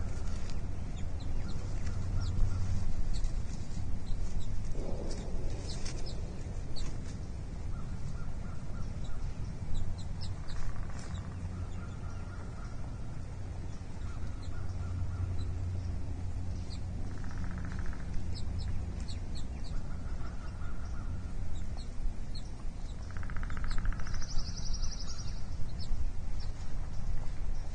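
Outdoor ambience with a steady low wind rumble on the microphone and scattered short bird chirps and calls throughout, a few of them longer and clearer.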